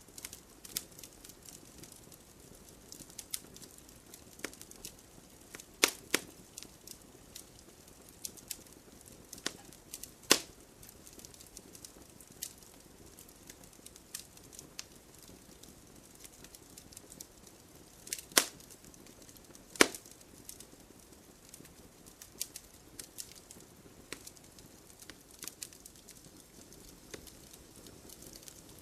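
Wood campfire crackling: scattered sharp pops and ticks over a soft low hiss. A few louder snaps come about six, ten, eighteen and twenty seconds in.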